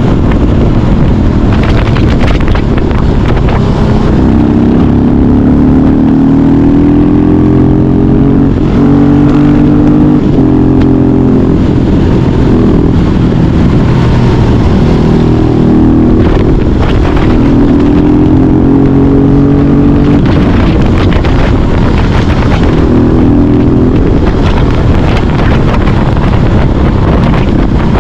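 Husqvarna 701 Supermoto's single-cylinder engine through a Yoshimura exhaust, loud, repeatedly climbing in pitch under throttle, dropping back and climbing again several times, as when accelerating through the gears.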